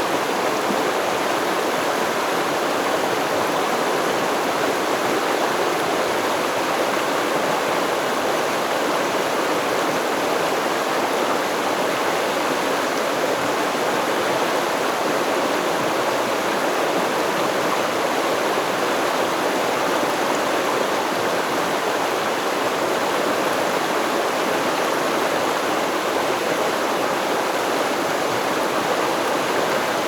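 River water flowing over rocks, a steady rushing and babbling with no change in level.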